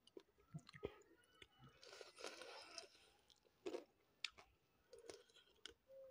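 Faint close-up eating of eel fish curry by hand: chewing with scattered wet mouth clicks and smacks and a few soft crunches.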